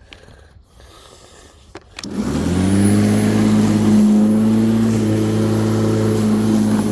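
Black & Decker 42 cm 1800 W electric lawnmower: a click, then its motor spins up about two seconds in and runs steadily with a high whine.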